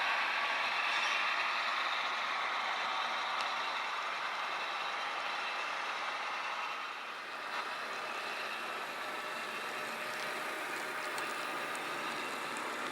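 HO scale model train running along the track: a steady mechanical running noise, dipping briefly about seven seconds in, with faint small clicks later on.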